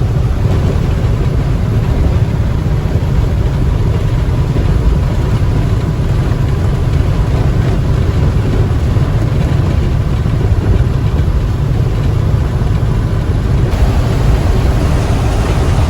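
Steady low drone of a box truck's engine and tyres, heard from inside the cab at highway speed on a wet road.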